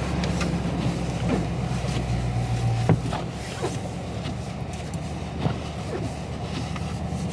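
Low steady drone of a Dodge Charger Scat Pack's 6.4-litre V8, heard from inside the cabin, with scattered light clicks and a sharper click about three seconds in.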